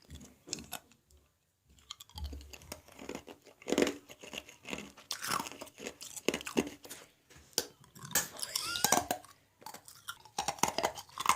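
Ice being crunched and chewed: an irregular run of crisp cracks and crunches.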